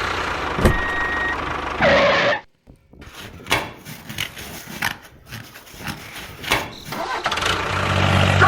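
Small engine running steadily, cutting off abruptly, then a few seconds of scattered clicks and knocks, before an engine runs again steadily near the end.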